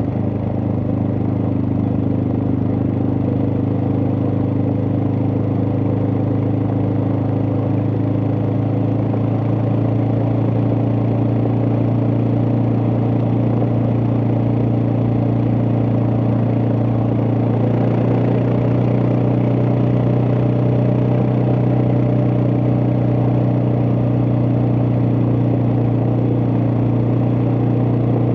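Suzuki DR650's single-cylinder engine running steadily under way, its pitch holding nearly constant with a slight change about ten seconds in.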